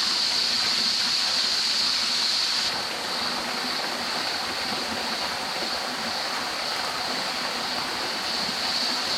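Water running in a rocky creek with a steady rush, under a continuous high drone of cicadas. The cicada drone drops away suddenly about three seconds in and swells back near the end.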